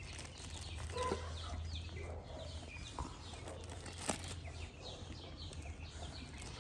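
Birds calling faintly in the background, with many short repeated chirps and clucks, over a low steady hum that drops away about two-thirds of the way through.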